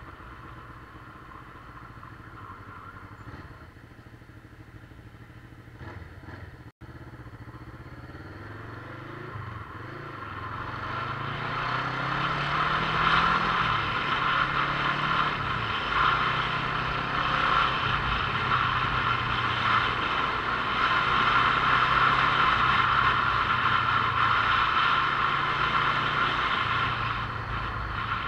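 Motorcycle engine on a ride, quiet at first, then pulling away from about ten seconds in with its pitch rising and falling through several gear changes and growing louder, over steady wind and road noise. A brief dropout about seven seconds in.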